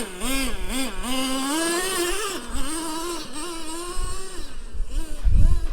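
Traxxas T-Maxx 3.3 nitro engine, a small two-stroke glow engine, running with the throttle blipped so its pitch rises and falls in quick waves. A low rumbling noise comes in near the end.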